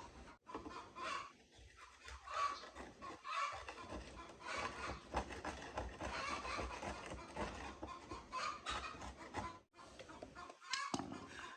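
Chickens clucking in irregular, repeated bursts.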